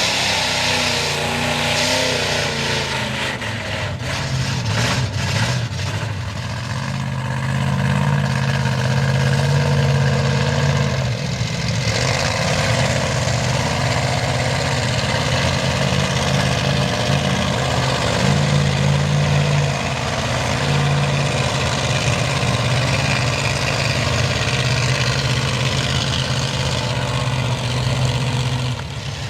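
Mega truck engine running loudly in a mud bog, revving up and settling a few times.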